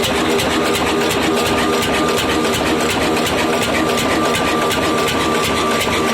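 Old 20 HP stationary diesel engine running steadily with a fast, even beat. A thin steady whine sets in about half a second in.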